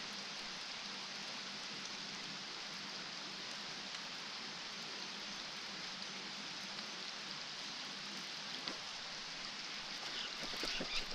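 Steady hiss of rain falling on the lake water, with a few faint light taps near the end.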